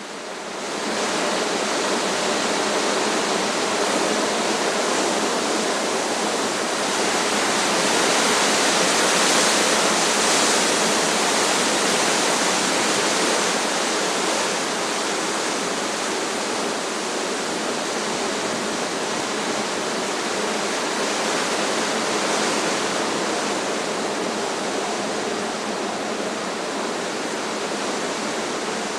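Strong wind rushing through trees: a steady rushing noise that fades in over the first second and grows a little louder about ten seconds in.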